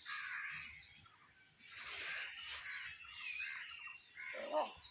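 Hill myna calling with a run of raspy squawks and chatter, including a harsh screech about two seconds in and a lower, throatier call near the end, over a steady high hiss.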